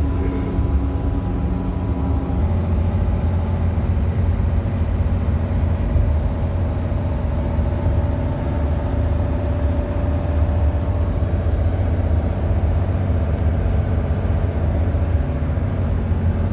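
Bus engine running steadily under way, heard from inside the cabin: a constant low drone with faint engine tones that shift a little in pitch.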